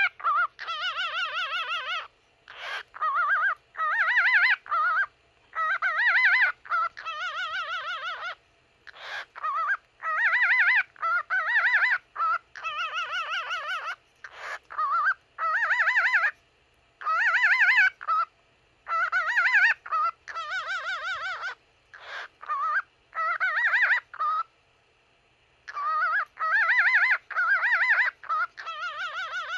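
Cockatiel singing: phrases of whistled notes with a quickly wavering pitch, split by short breaks, with a longer pause about 25 seconds in.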